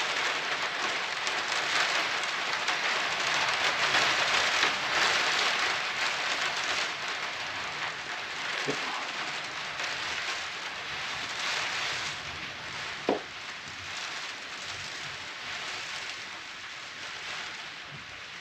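Steady rain hiss on a roof, growing fainter toward the end, with a couple of light knocks partway through.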